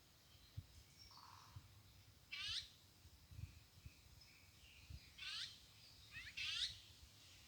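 A small bird's short calls, each a quick run of high notes: one about a third of the way in, then three more in the second half, the last two back to back. Faint low knocks sound between them.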